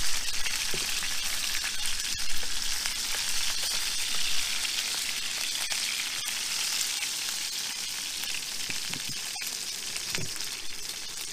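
Steak burger sizzling steadily in a frying pan on a Coleman camping stove, with a few sharp clicks of metal tongs against the pan as it is turned.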